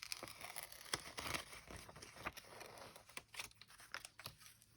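Magazine paper being cut round an outline: quiet irregular snips and clicks with crinkling paper rustle.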